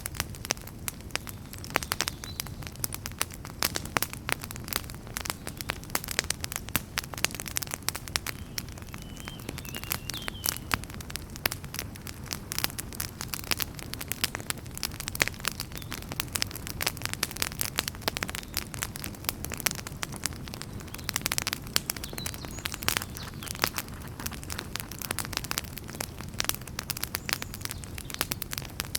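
Wood fire burning in a fireplace, crackling and popping in dense, irregular snaps over a steady low rumble of the flames, with a brief faint whistle about ten seconds in.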